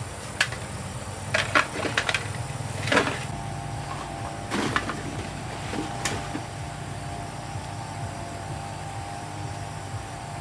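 A steady low machine hum, with a few scattered knocks and clatters in the first six seconds.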